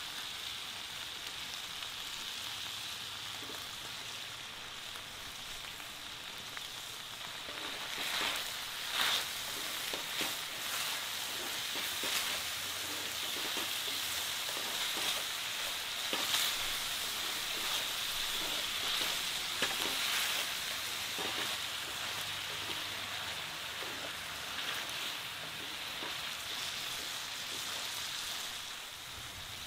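Cherry tomatoes, garlic and green chillies sizzling in hot oil in a cast-iron skillet, a steady frying hiss. From about eight seconds in, a wooden spatula stirs them, adding scattered knocks and scrapes.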